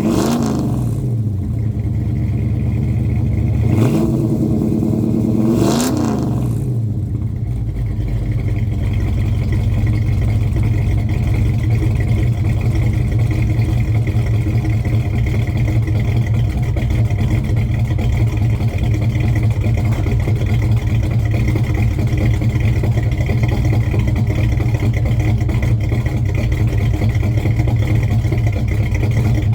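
A 1970 Chevrolet Chevelle's engine running during its warm-up after a cold start. It is revved briefly three times in the first several seconds, then settles into a steady idle.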